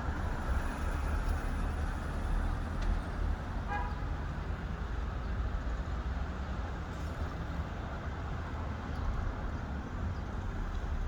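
Steady outdoor rumble of road traffic, with one brief horn toot about four seconds in.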